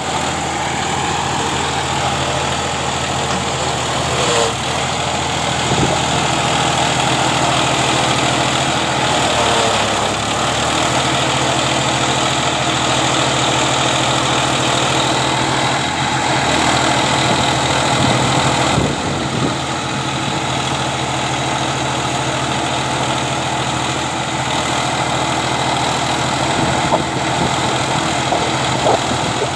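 Massey Ferguson 241 tractor's three-cylinder diesel engine running steadily at a constant speed.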